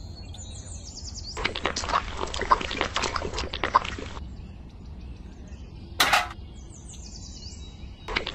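Birds chirping, with a busy stretch of rapid clicks and calls in the first half and a short sharp burst about six seconds in.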